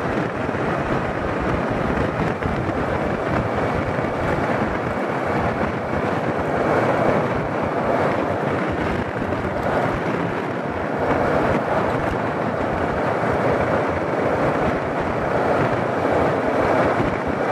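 Steady wind and road noise from a moving motorcycle, with wind rushing over the microphone.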